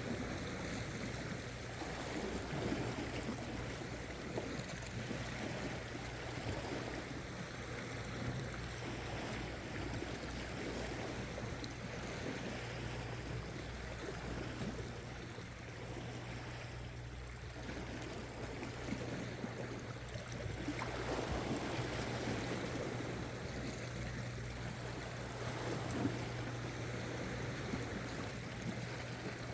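Sea water washing and lapping against shore rocks, with a steady low hum underneath.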